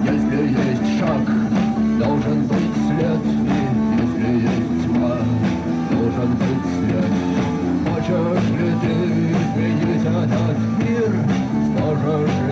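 Live rock band playing a song: electric guitars and bass with drums keeping a steady beat.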